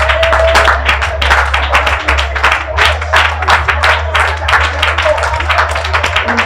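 Congregation praying aloud all at once, many overlapping voices mixed with hand clapping, over a steady low sustained musical note.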